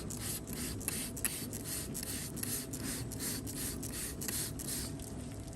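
Hand spray bottle squirted over and over in quick strokes, about three a second, applying chlorhexidine to a cow's hoof lesion; the squirting stops about five seconds in. A steady low hum runs underneath.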